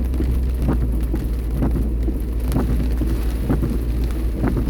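Heavy rain striking a moving car, heard from inside: irregular drop impacts over the steady low rumble of the car driving.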